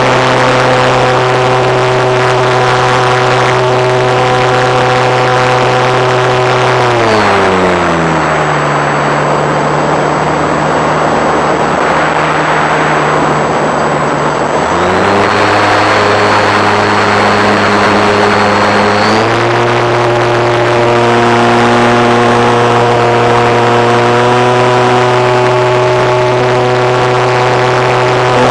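Radio-controlled model airplane's engine and propeller running with a steady buzzing note. It is throttled back about seven seconds in to a lower, steady pitch, then opened up again about halfway through.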